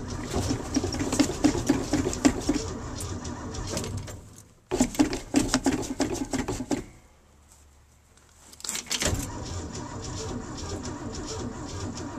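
1974 Ford F250's engine being cranked by its starter in repeated bursts, a pulsing churn that stops and restarts twice, without firing: a cold engine that won't start, short of fuel in the carburetor.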